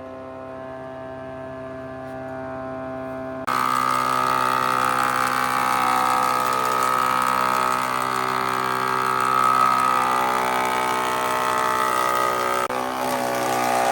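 Woodworking machinery running with a steady motor hum, joined suddenly about three and a half seconds in by a much louder hissing noise that holds until near the end.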